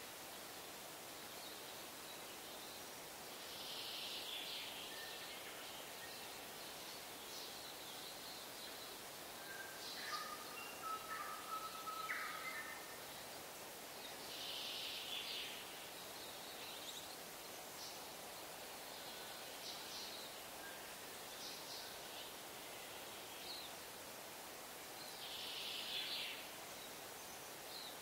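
Wild birds calling over a steady outdoor hiss: a raspy call about a second long comes three times, roughly every eleven seconds, with a cluster of short chirps and whistles in the middle.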